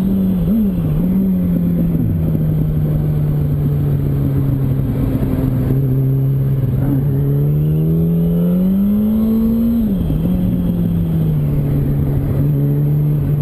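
Yamaha R1 sportbike's inline-four engine pulling on a winding road. The engine note climbs and then drops sharply twice with gear changes, over steady wind rush on the microphone.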